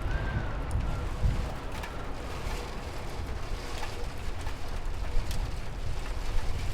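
Steady rain with scattered drips and a low, deep rumble underneath.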